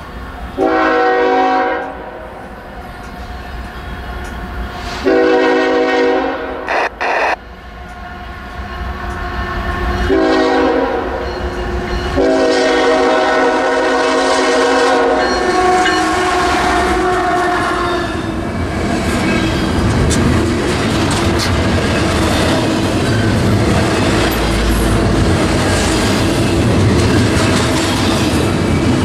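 CSX freight locomotive air horn sounding two long blasts, a short one and a final long one held several seconds. This is the crossing pattern, blown as the train approaches. The locomotive then passes with a rising engine rumble, followed by the steady rattle and clatter of double-stack container well cars rolling by.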